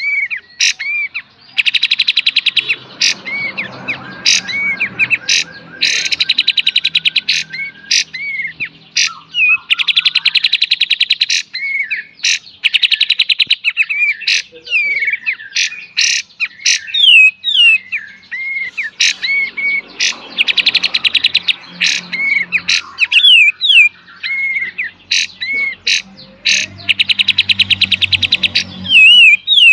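Kapas tembak, a bulbul, singing in full song: bursts of fast, rattling trills (beset) of about a second each, alternating with short, sharp whistled notes and single snapping calls (tembak).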